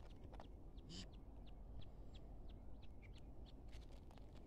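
Near-silent background: a low steady rumble with scattered faint short bird chirps, and one slightly louder chirp about a second in.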